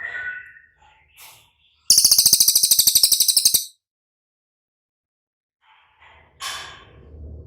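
A bird gives a loud, very rapid, high trill of about fifteen notes a second, starting about two seconds in and lasting under two seconds. Fainter calls come near the start and again near the end.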